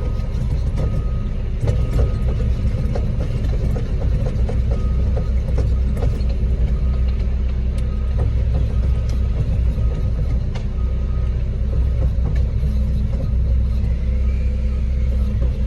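Concrete mixer truck's diesel engine running steadily with a low rumble while it pours, with a faint beep repeating about once a second and scattered light knocks.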